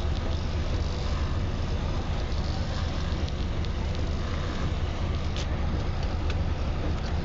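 Steady low rumble and hiss of a motor vehicle running, with a couple of faint clicks late on.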